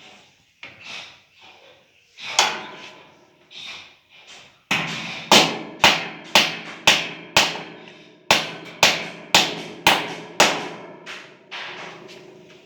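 Hammer blows during a window air-conditioner installation: a few scattered knocks, then a run of about a dozen strikes, roughly two a second, each followed by a short ring.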